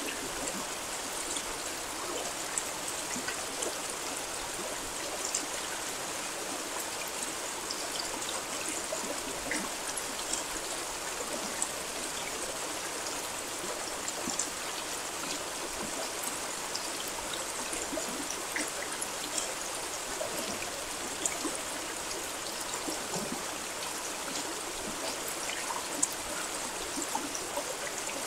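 Steady rain: an even hiss of falling water with many small drop ticks scattered through it.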